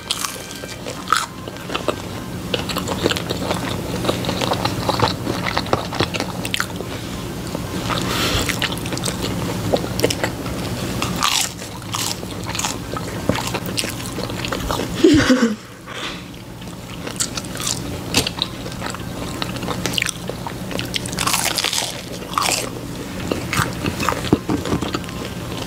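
Crunchy bites and chewing of breaded fried chicken nuggets and french fries, close to the microphone, with repeated crisp crunches throughout.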